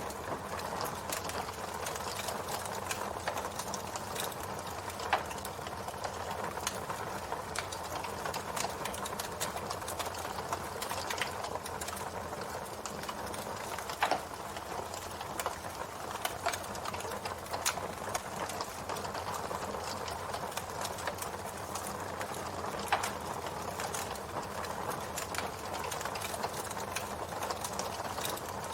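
Campfire burning with a steady crackle of small snaps and pops from the wood, and a few louder pops spread through.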